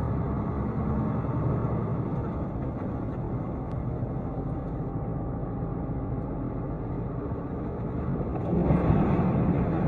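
Steady vehicle engine and road noise picked up by a dashcam, growing louder near the end.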